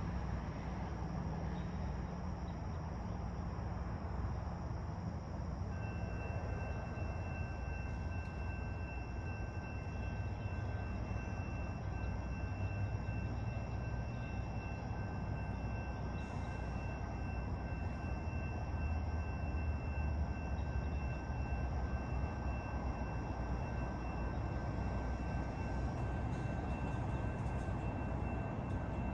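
Low, steady rumble of a train at the station, with two faint, steady high-pitched tones joining about six seconds in.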